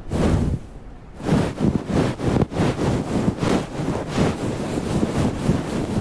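Wind gusting over the microphone: a loud, uneven rumbling rush that flutters rapidly, with a brief lull about a second in.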